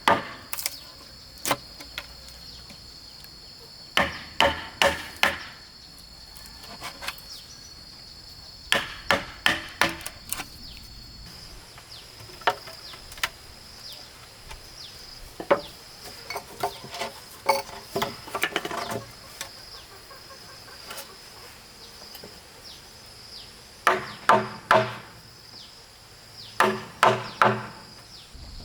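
Quick runs of sharp tool blows on wood, a few strokes at a time with pauses between. Under them runs a steady high-pitched insect drone.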